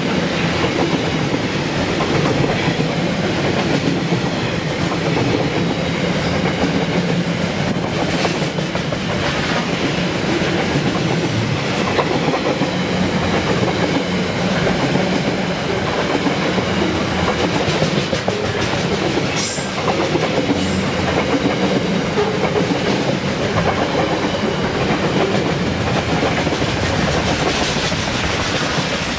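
Container freight wagons rolling past close by: a steady rumble of steel wheels on rail with clickety-clack over the rail joints, and a few sharp knocks.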